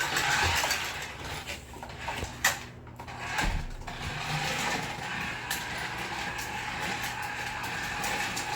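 Small toy RC car's electric motor and plastic gears whirring as it drives, with a few knocks in the first half and then a steady whir.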